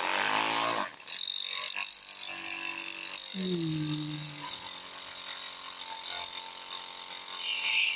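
Worn MFA Stingray brushed electric boat motor powered up, giving a harsh rattling buzz for about the first second, then settling into a steady high whine. This is the motor's failing 'death rattle'; it smoked on the water and is being retired.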